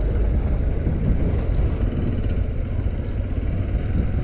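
Motorcycle engine running steadily while riding, with a low rushing noise of wind and road.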